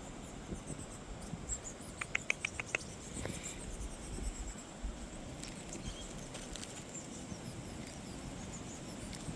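Small wild birds around the campsite: a quick run of about six short, high chirps about two seconds in. Low wind noise runs underneath.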